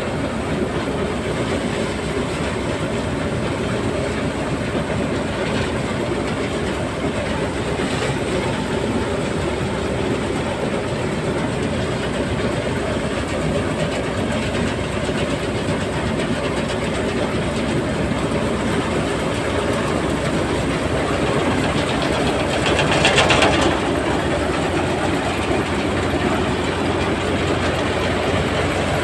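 HMT 5911 tractor's diesel engine running steadily under load while driving a threshing machine, with a continuous rattling clatter from the thresher. There is a brief louder surge about three-quarters of the way through.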